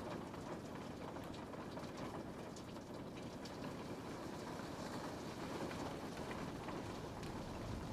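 Rain falling steadily on a window pane: a continuous hiss with many small drop ticks scattered through it.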